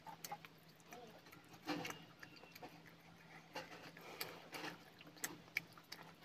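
Eating sounds up close: chewing of chicken and rice with scattered wet mouth clicks and smacks, one louder noisy smack about two seconds in, over a faint steady hum.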